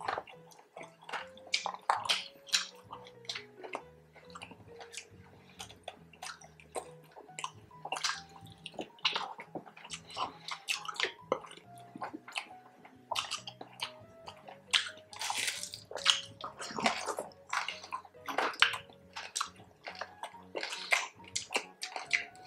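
Eating sounds of crispy pork belly: many short crunches of the crackling skin, and wet chewing and lip-smacking. Light background music plays softly underneath.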